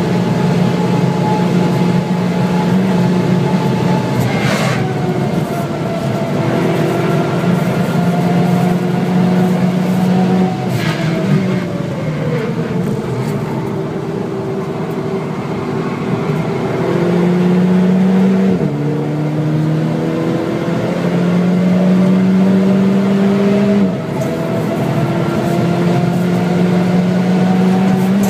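VW Scirocco 2.0 TSI's tuned turbocharged four-cylinder engine heard from inside the cabin at racing speed, over tyre and wind noise. The engine note falls as the car brakes hard for a slow corner, then climbs steadily under full acceleration, broken by two upshifts, each a sudden drop in pitch.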